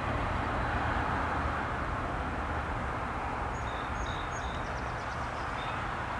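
Steady low rumble of a passing train fading slowly as it moves off, with a small bird chirping several times near the end.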